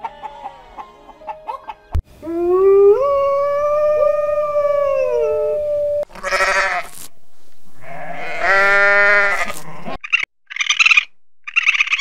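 Sheep bleating: one long drawn-out bleat that rises and then holds, followed by two shorter bleats. Brief raspy calls follow near the end.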